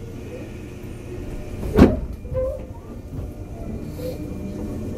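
Running noise inside a 201 series electric train: a steady low rumble, with one sharp knock a little under two seconds in.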